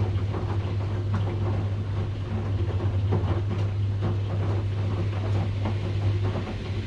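Washing machine running: a steady low motor hum with irregular knocks and rattles.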